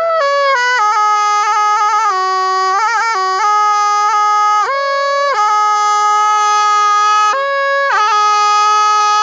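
Thai pi, a quadruple-reed oboe, playing a solo melody in one unbroken line: long held notes joined by quick trills and turns, with flurries of fast ornaments about three seconds in and again near the end.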